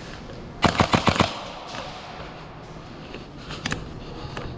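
Airsoft gun firing a rapid burst of about six shots in half a second, then a few fainter shots near the end.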